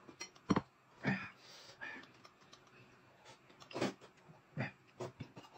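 Close-up eating and drinking sounds: a handful of short sips of a thick black sesame drink from a glass cup and slurps from a bowl of noodles, spaced irregularly.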